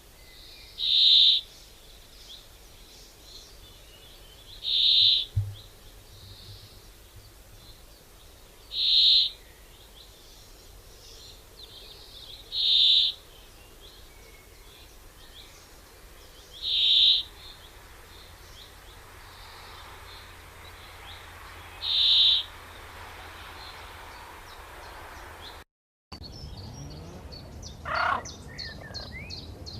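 A bird calling a short, high, loud note at a steady pace, about once every four seconds, six times over. Near the end, after a break in the sound, a different, lower-pitched bird call is heard once.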